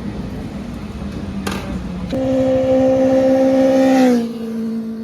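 Sport motorcycle engine rumbling at low revs, then revved up about two seconds in and held at a steady high pitch for about two seconds. It then eases off slightly to a lower steady note.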